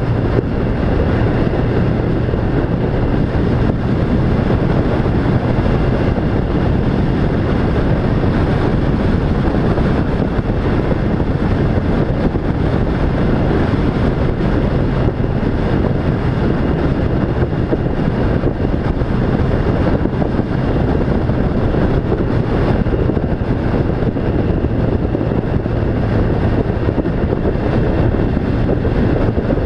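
An engine running steadily, a constant low hum under an even rushing noise that does not change.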